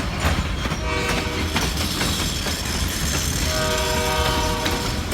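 Kiamichi Railroad train rolling past with a low rumble and wheels knocking over the rail joints. A locomotive horn sounds briefly just under a second in, then again for about a second near the end.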